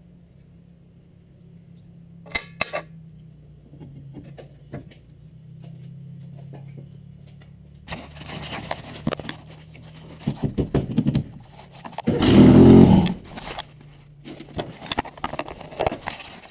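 Old Ford Escort engine idling with a low steady hum, then revved from about eight seconds in, with bursts of crackling pops and one loud rev about twelve seconds in. The engine runs rich and backfires as the throttle comes off.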